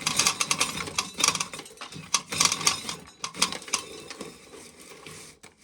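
Dry corn kernels clattering as ears are shelled, with kernels rattling into a nearly full pail, in irregular rapid bursts of clicks.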